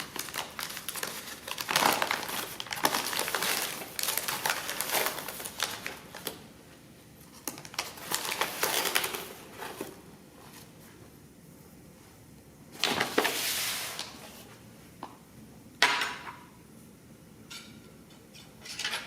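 Tablespoons of sugar being scooped and poured into a dish: a spoon scraping and rustling through the sugar in several long stretches, with a few sharp clinks of the spoon against the dish.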